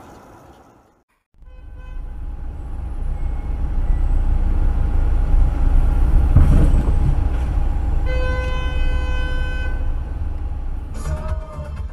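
A heavy vehicle rumbles past, the rumble swelling then fading, and a horn sounds one steady blast of about two seconds near the end.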